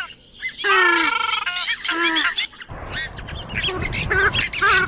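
Swamphen (trích cồ) calling: loud, nasal, honking calls that fall in pitch in the first half, then shorter, quicker squawks from about the middle on, over a steady hiss that rises at that point.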